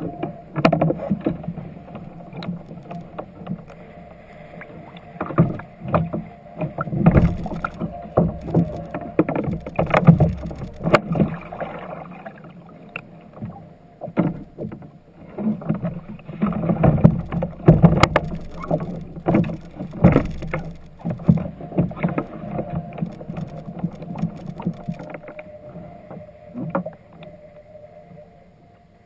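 Kayak on the water: irregular knocks and bumps against the hull amid water movement, loudest in two busy spells a few seconds in and around the middle.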